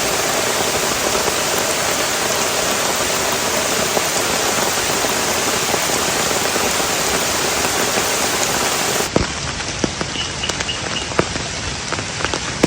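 Heavy rain falling steadily. About nine seconds in it changes abruptly to lighter, sparser rain, with separate drops striking close by.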